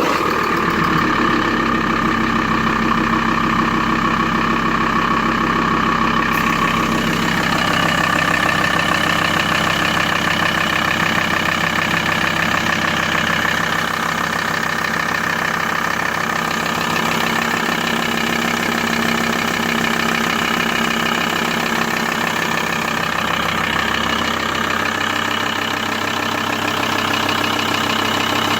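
Volkswagen T4's ACV 2.5 TDI five-cylinder diesel engine idling steadily, just after being started.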